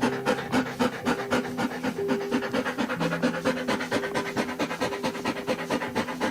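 An animal panting quickly and evenly, about five short breaths a second.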